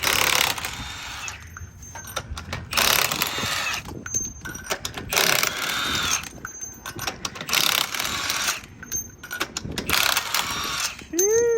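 Impact wrench running lug nuts on a truck wheel in five short bursts, each about a second long with pauses between.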